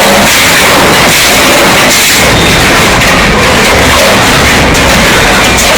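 Loud, continuous, overloaded rumbling and crashing noise, with many small impacts through it.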